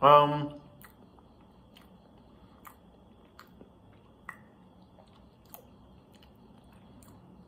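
A man's short voiced sound, about half a second long, right at the start. After it comes chewing of a soft bread bun, with scattered small mouth clicks.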